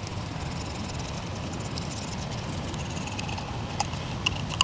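Razor blade scraping old gasket material off the cylinder head's valve cover mating surface: light scrapes and a few sharp clicks in the last second or so, over a steady low background rumble.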